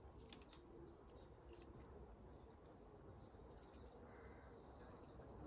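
Faint background birdsong: wild birds giving short, quick high chirping phrases, about three times, with a faint click near the start.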